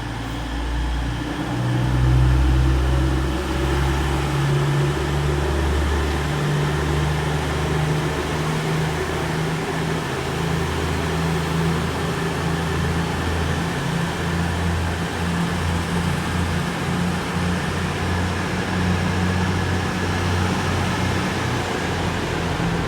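Diesel engines of an East Midlands Railway Class 222 Meridian multiple unit working under power as the train pulls out of the platform, a deep throbbing drone that swells about two seconds in and carries on steadily.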